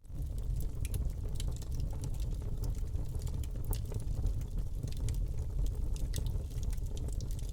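Wood fire crackling in a fireplace: a steady low rumble of flames with frequent sharp pops and snaps.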